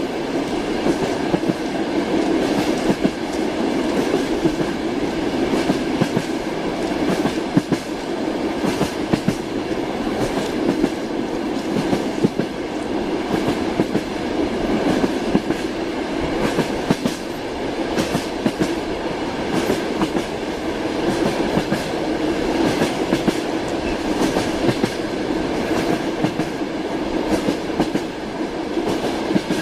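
Train wheels rolling and clattering over rail joints: a steady rumble broken by frequent irregular clicks and knocks.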